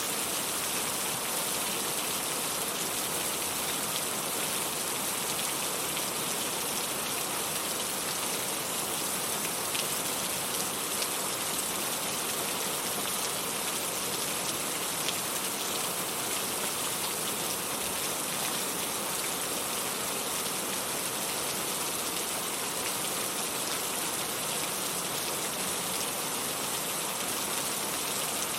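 Steady, constant rain falling on a surface, with faint scattered drop ticks.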